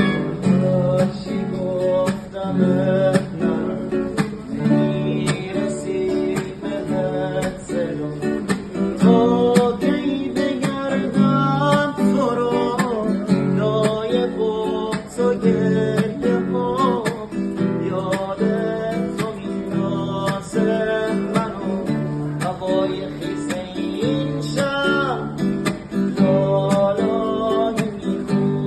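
Acoustic guitar strummed in a steady rhythm, with a melody line moving over the chords.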